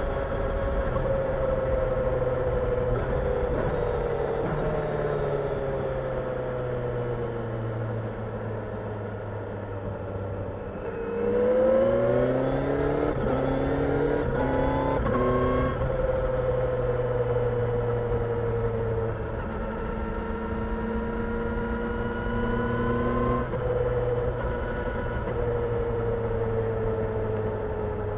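Kawasaki Ninja 1000SX inline-four engine under way. It slows with a falling pitch for about ten seconds, then accelerates hard through quick upshifts, the pitch climbing and dropping back four times. That is the loudest part, and the engine then settles to a steady cruise.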